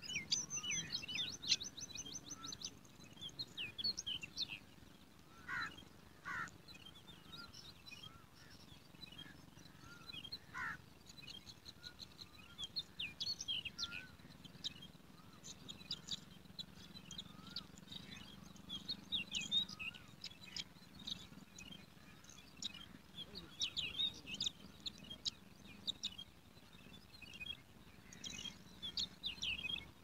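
Small birds chirping: many short, high-pitched chirps scattered throughout, a fast trill in the first few seconds, and a few lower down-slurred calls around six and ten seconds in.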